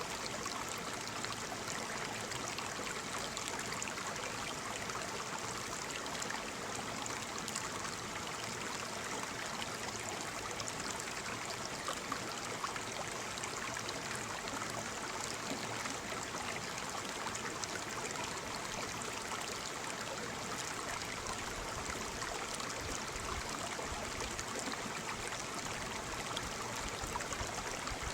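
Waterfall: steady rush and splash of falling water.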